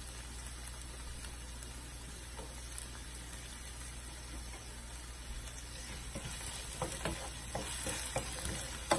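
Chopped onions and freshly added tomatoes sizzling steadily in hot oil in a nonstick frying pan. From about six seconds in, a wooden spatula stirs and scrapes through them, with light clicks and knocks against the pan.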